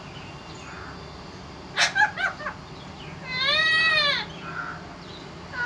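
Parrot calling: a few short chirps about two seconds in, then one loud, long call that rises and falls in pitch.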